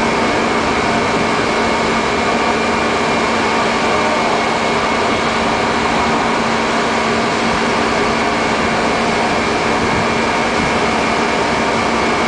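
Steady machinery drone of an offshore gas production platform: a constant rushing noise with a low hum and a higher whine held at one pitch.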